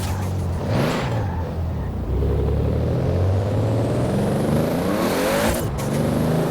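Toyota Supra RZ's 2JZ straight-six with a large single turbo accelerating hard, its note climbing steadily with a faint rising turbo whistle above it. A hissing blow-off burst comes about a second in and again near the end as the throttle is lifted.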